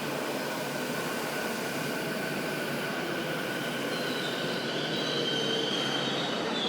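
Electric commuter train running on the rails: a steady rumble and rush, with thin high-pitched wheel squeal coming in from about four seconds in.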